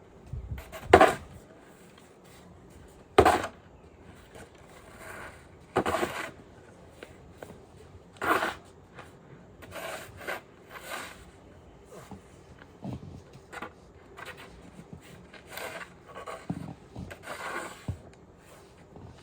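Snow shovel scraping and scooping snow in repeated short strokes, one every second or two, the loudest in the first half.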